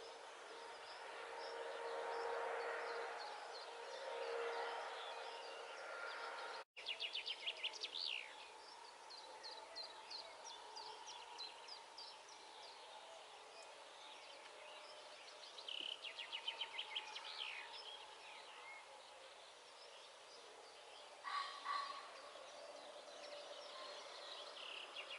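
Songbirds singing at dawn: scattered chirps and several rapid, high trilled phrases, over a faint steady background hum.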